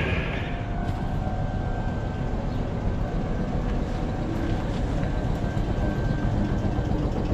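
Local train running, heard from inside the carriage: a steady low rumble with a faint steady whine above it.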